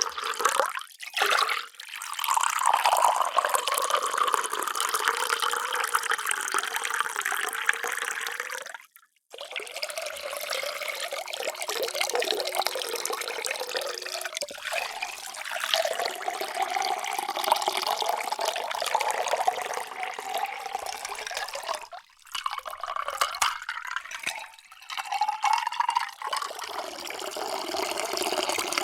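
Water being poured into a vessel, several pours in a row with short breaks about nine and twenty-two seconds in; during some pours the pitch of the stream climbs.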